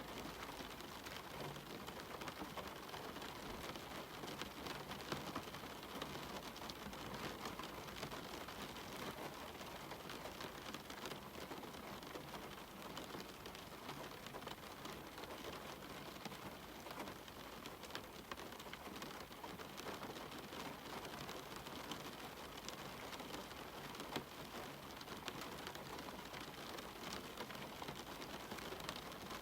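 Steady rain falling on a cabin window and the surrounding forest, a constant hiss dotted with the ticks of single drops, with a couple of louder drop hits.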